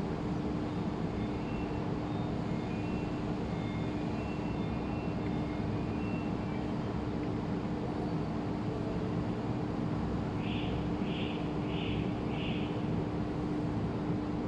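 Steady vehicle running noise with a constant low hum. About ten seconds in come four short, evenly spaced high beeps from the truck tire-pressure monitor receiver.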